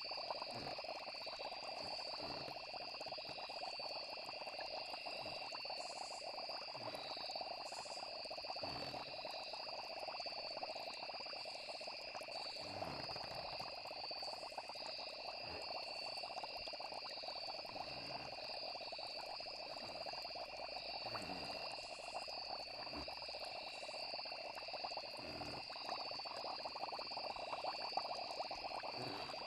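Night chorus of frogs, with crickets or other insects keeping up a steady high trill. Soft low croaks or plops come and go every second or two.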